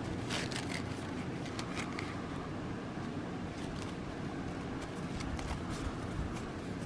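Light rustling and scattered small clicks of hands handling cotton embroidery floss and cross-stitch fabric.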